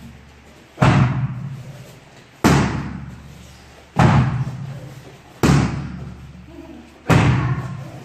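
Five heavy thuds at an even pace, about one every second and a half, each ringing on and fading over about a second.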